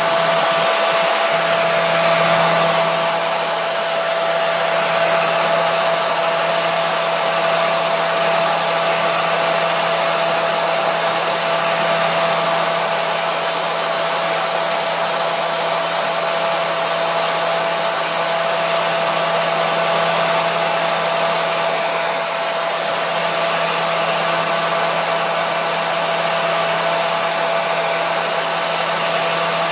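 Hair dryer running continuously: a steady rush of air with a constant whining tone and a low hum underneath.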